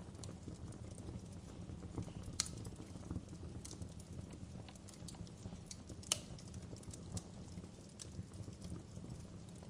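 Wood fire crackling in a fireplace: scattered sharp pops and snaps over a low, steady rumble, with two louder pops about two and a half and six seconds in.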